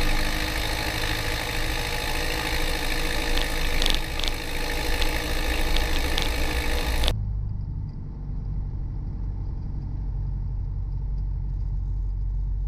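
1969 Piper Cherokee 140's four-cylinder Lycoming engine and propeller running steadily at low taxi power, an even droning hum. About seven seconds in the sound abruptly turns muffled, its high end cut off, while the low drone carries on.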